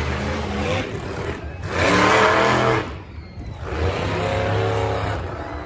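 Monster truck engines revving hard in a race, surging and falling in pitch; the loudest surge comes about two seconds in, then a brief drop and another surge.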